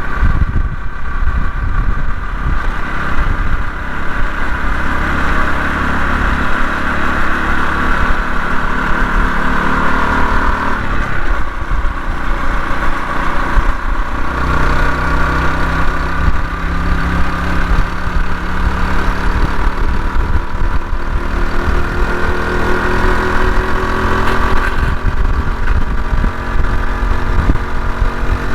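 Honda CT125 Hunter Cub's single-cylinder engine running on the road, its note shifting a few times as speed and gears change, with heavy wind buffeting on the microphone.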